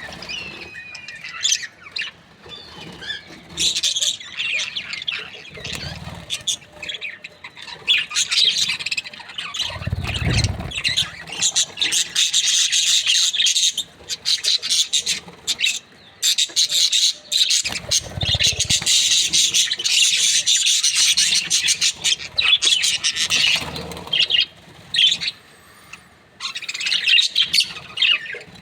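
Budgerigars chirping and chattering in a fast, near-continuous twitter, with a few dull low thumps.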